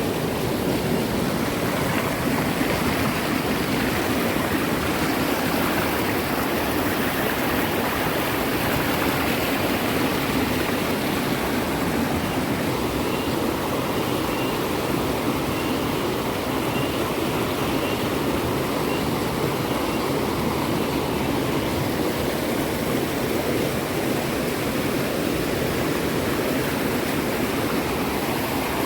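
Steady rush of water from a forest stream (hole) flowing over rocks. A few faint, high chirps repeat for several seconds about halfway through.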